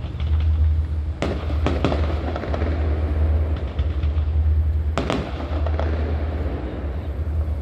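Fireworks going off: a few sharp bangs of exploding shells, a cluster about a second to two seconds in and another about five seconds in, over a steady low rumble.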